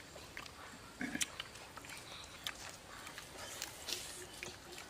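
People biting and chewing roasted quail meat off the bone, with scattered short mouth clicks and snaps and a louder cluster about a second in.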